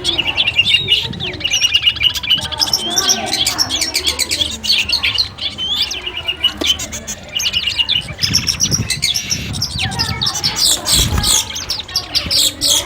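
Long-tailed shrike (cendet) singing: a dense run of rapid chattering trills and varied sharp chirps, with a few low thuds in the second half.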